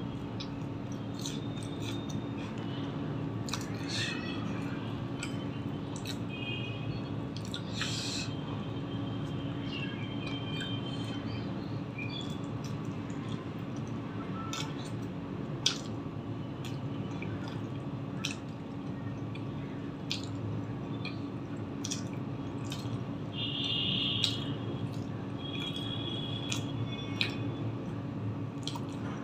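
Close-miked eating sounds: wet chewing, lip smacks and small mouth clicks from someone eating egg curry by hand. A steady low hum runs underneath, with a few brief high chirps.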